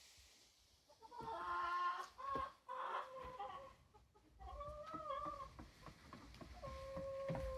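Domestic chickens clucking and calling in short pitched calls, with one longer drawn-out call near the end.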